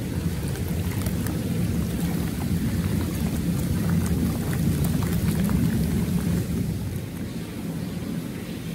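Jet bath churning the water of a tiled hot-spring bath: a steady low rumble of bubbling water with scattered crackling splashes. It gets a little quieter about seven seconds in.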